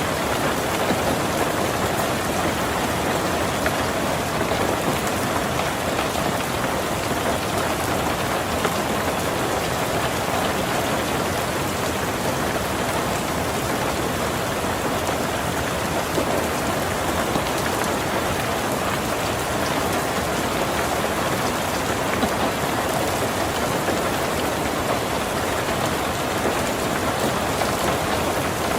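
Heavy rain drumming steadily on a tin roof, a dense, even patter with no letup.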